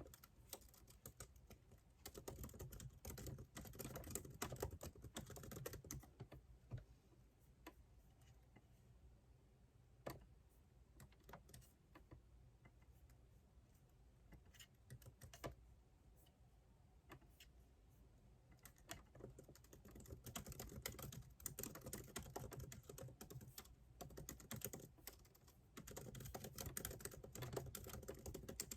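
Typing on a computer keyboard in quick runs of key clicks, with a pause of scattered single keystrokes in the middle.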